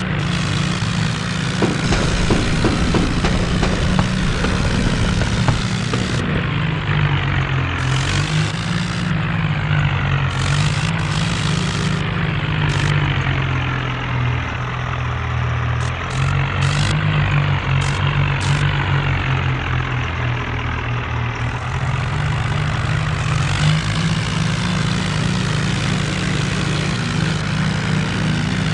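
John Deere tractor's diesel engine running steadily, its pitch rising and falling a little several times.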